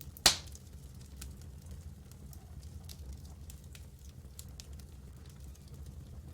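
Campfire crackling: one sharp, loud pop shortly after the start, then small scattered crackles and ticks over a steady low rumble.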